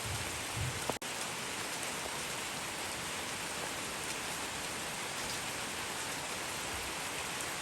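Steady rain falling, an even hiss with faint scattered drop ticks. The sound drops out for an instant about a second in.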